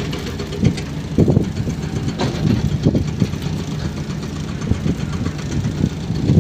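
An engine or motor running steadily with a low hum, with irregular louder swells and a few brief knocks.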